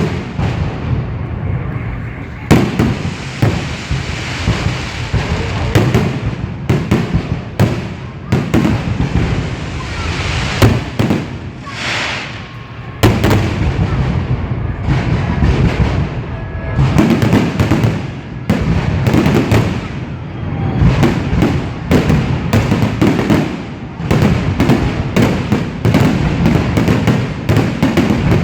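Fireworks salute: shells bursting in rapid succession, dozens of sharp bangs over a continuous rumble.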